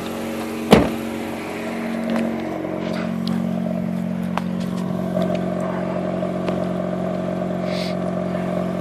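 Mazda RX-8's two-rotor rotary engine idling, heard from the exhaust, with a single sharp thump about a second in. The engine has low compression and a miss, which the owner blames for its hunting, unsteady idle.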